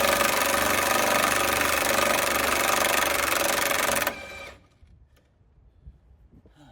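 Impact wrench hammering steadily on a truck motor mount bolt, loosening it, then stopping abruptly about four seconds in.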